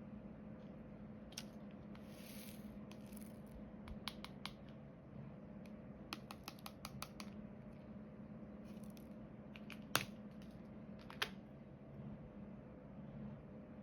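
Small hard plastic clicks and taps of diamond painting: a drill pen picking up resin drills and pressing them onto the sticky canvas. The clicks come in scattered quick runs, with two sharper clicks near the end and a couple of brief scratchy rustles, over a low steady hum.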